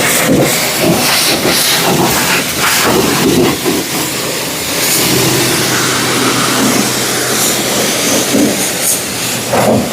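Steady high-pressure water spray from a car-wash wand striking a vehicle's body, surging unevenly, with a low steady hum underneath.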